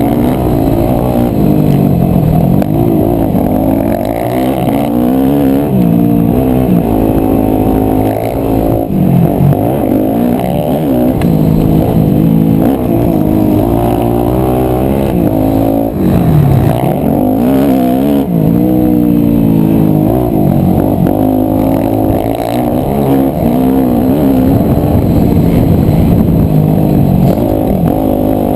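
A 250cc four-stroke single-cylinder motocross bike's engine being ridden hard, revving up and falling back over and over as the throttle is worked, its pitch rising and dropping continuously.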